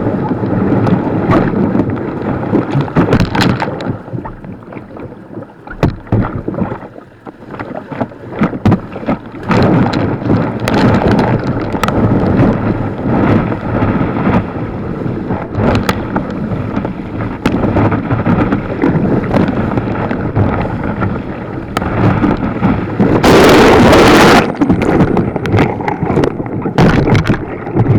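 Rushing white water and splashing around a kayak on a whitewater river, with many short splashes and knocks and wind buffeting the microphone. A much louder rush lasting about a second and a half comes around twenty-three seconds in.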